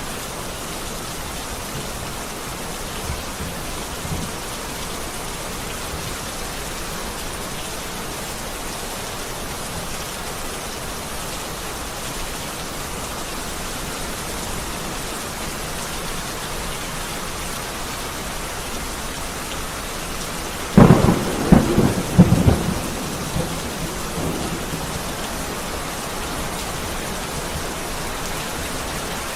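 Heavy rain falling steadily, with a sharp crack of close thunder about two-thirds of the way through that crackles for a couple of seconds and rumbles away.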